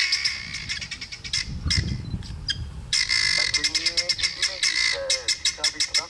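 Birds squawking in harsh, rapidly repeated calls, with lower wavering calls in the second half.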